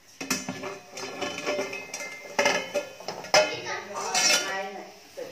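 A spoon stirring and scraping thick masala in a cooking pan, clinking against the pan again and again. The masala is being roasted until the oil separates.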